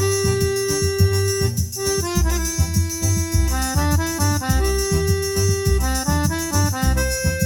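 Forró music: an accordion plays a melody of held and quick-changing notes over a steady low beat.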